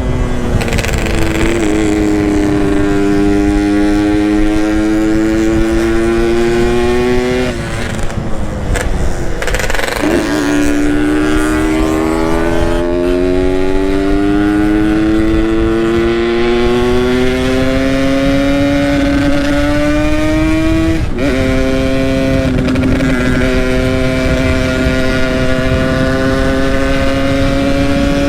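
Yamaha RX-King two-stroke single-cylinder motorcycle with an aftermarket Boban exhaust, riding under way. Its engine pitch climbs slowly, falls back sharply about seven seconds in, climbs again, falls again about 21 seconds in, then holds steady.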